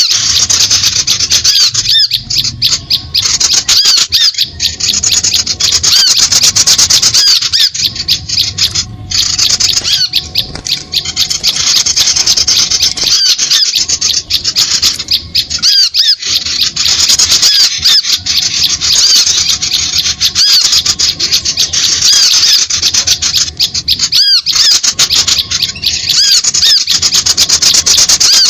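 Bird-lure recording of many small birds calling at once: a dense, continuous stream of high-pitched chirps and squeaky notes, played to draw small birds in for trapping.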